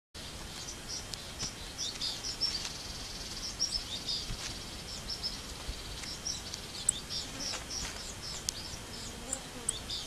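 Small birds chirping in many quick, overlapping short high calls, with a faint steady high-pitched insect buzz underneath and a few sharp ticks.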